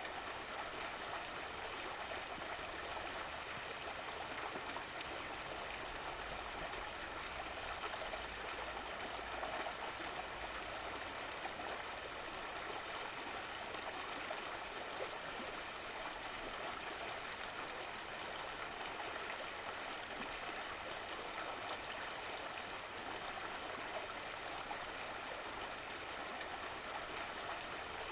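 A stream of running water flowing steadily, an even rush with light trickling and gurgling.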